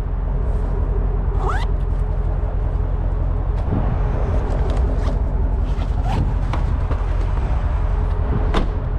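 A vehicle engine running steadily in a low drone, with a few brief higher sounds over it.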